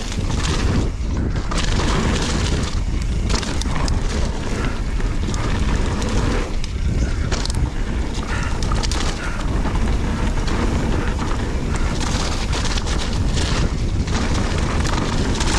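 Wind buffeting the microphone over the rumble and rattle of a mountain bike riding down a muddy trail.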